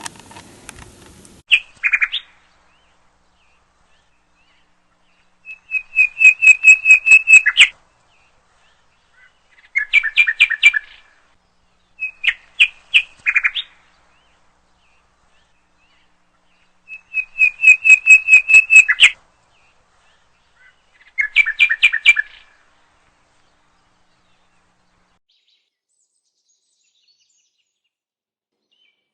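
A bird singing repeated short phrases, each a quick series of clear, high notes lasting one to two seconds, six phrases with pauses of a few seconds between them.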